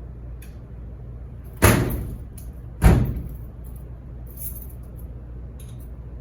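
Two loud slams about a second apart, each dying away briefly, over a steady low hum of running machines.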